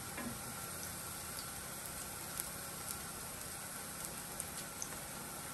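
Ripe plantain slices sizzling steadily in hot grapeseed oil in a frying pan, with a few small pops.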